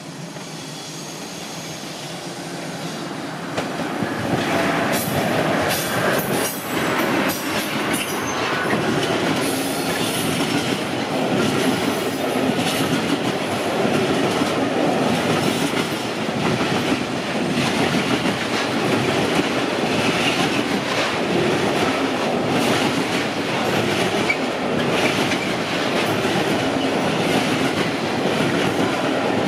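Freight train approaching and passing close by. It grows louder over the first four seconds, then its long line of wagons loaded with lorry trailers rolls past steadily, the wheels clicking over the rail joints.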